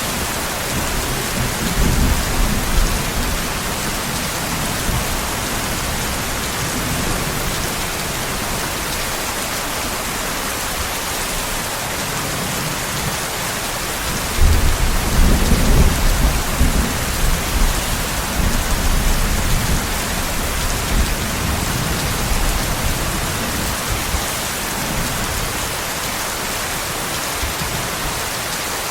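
Steady heavy rain with a continuous hiss, with low rumbles of thunder, the loudest rolling in about halfway through and fading over a few seconds.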